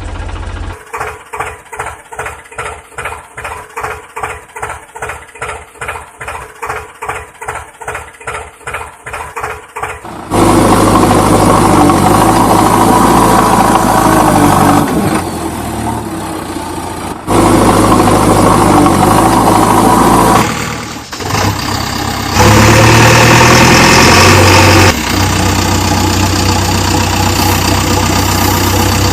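An engine chugging in slow, even beats, about two a second, for roughly the first ten seconds. It then switches abruptly to a loud, steady engine run, which changes sharply several more times.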